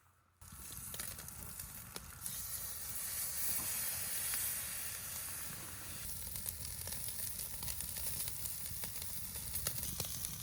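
New York strip steak sizzling as it sears on a grill grate over a campfire, with scattered small crackles. The sizzle starts abruptly about half a second in.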